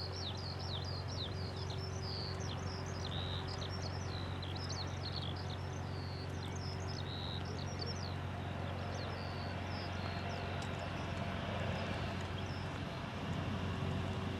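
A songbird singing a rapid run of chirps and trills, fading out about two thirds of the way through, over a steady low hum. Near the end a low aircraft engine rumble grows louder.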